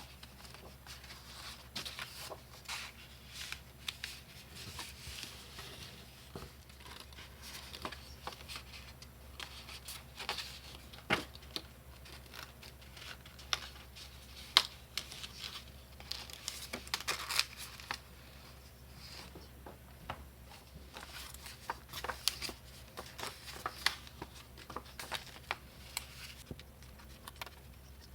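Construction paper and card being handled on a table: rustling and crinkling, with many small taps and clicks scattered through.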